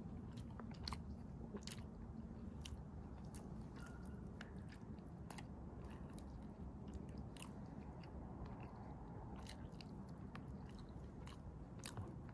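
Close-miked chewing and biting of juicy rotisserie chicken, with short wet mouth clicks scattered irregularly through, over a steady low background.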